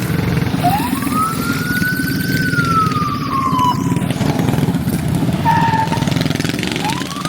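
Emergency vehicle siren in a slow wail, each cycle rising then slowly falling over about three seconds: one full wail, then a new one starting near the end. A steady low rumble of vehicle engines runs under it.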